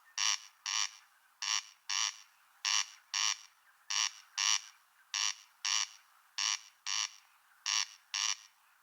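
An animal by a river calling in rasping double notes, a pair about every second and a quarter, repeated with machine-like regularity.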